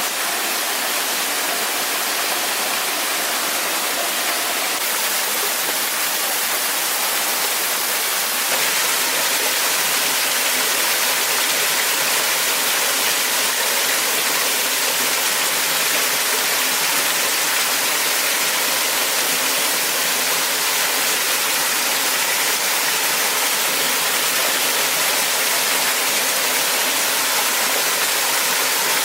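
Waterfall: a steady rush of falling water, a little louder from about eight seconds in.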